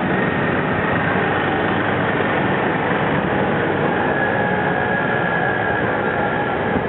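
Steady, dense street traffic: the continuous noise of many vehicle engines and tyres passing.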